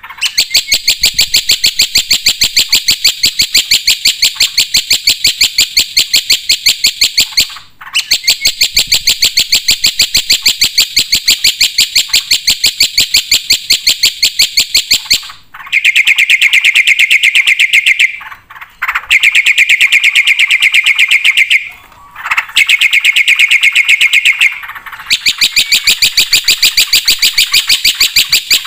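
Black-winged myna (jalak putih) singing loudly: very rapid, evenly repeated harsh chattering notes in long bouts of several seconds, broken by a few short pauses.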